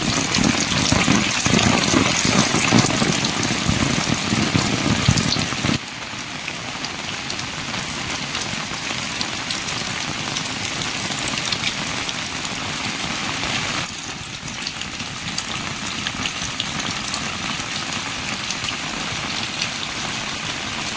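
Steady heavy rain. It is louder and heavier in the low end for the first six seconds, then drops abruptly to a lighter, even hiss at about six seconds and a little again at about fourteen seconds.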